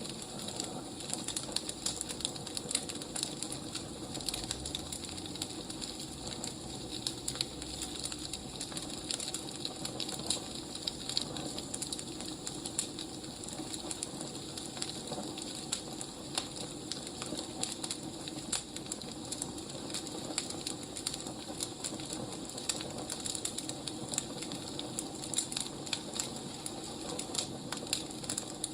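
Firewood fire crackling: a steady soft hiss with many small irregular pops and snaps.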